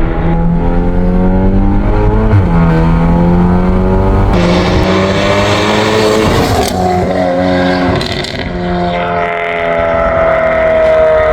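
Volkswagen Golf 8R's turbocharged 2.0-litre four-cylinder engine under hard acceleration in sport mode, its pitch climbing and then dropping back several times as the gearbox shifts up.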